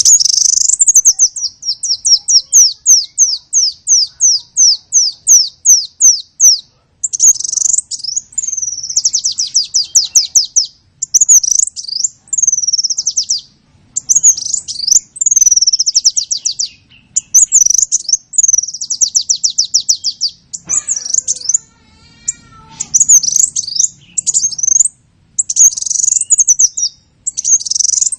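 A small songbird singing loudly in long, varied phrases of rapid repeated high notes and trills, with short pauses between phrases. The first phrase runs about three notes a second for several seconds.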